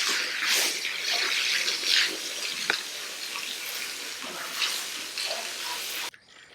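Water spraying from a garden hose in a steady hiss, shut off suddenly near the end.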